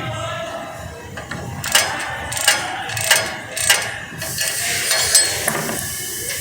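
Ratchet with an extension and 10mm hex bit working loose a transmission fill plug, giving a run of sharp clicks about half a second to a second apart. A steady hiss comes in about four seconds in.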